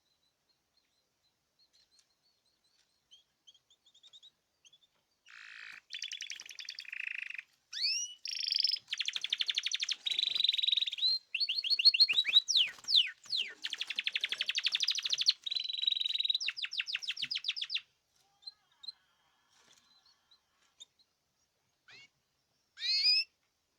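A cage songbird singing a long song of fast trills, buzzy rolls and rising whistles, with short chirps before and after.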